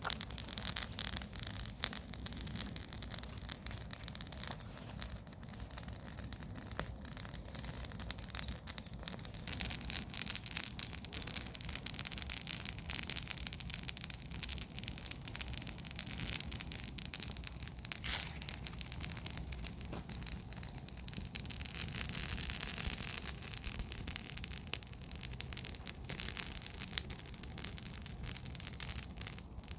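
Garden bonfire of burning garden waste crackling steadily: a dense run of fine snaps and pops over a continuous hiss, with a low rumble underneath.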